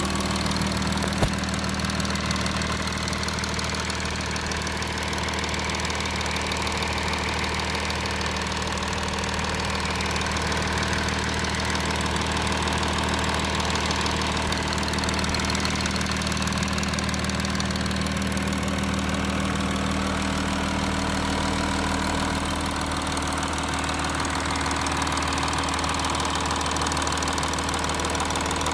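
Audi A6 (4G) engine idling steadily, with a single short tick about a second in. Its passenger-side exhaust camshaft has been replaced, and the cam no longer clicks.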